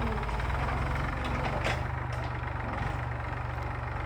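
Massey Ferguson tractor's diesel engine running steadily at a constant pitch, as it does when pulling a plough, with a few short clatters about a second and a half in.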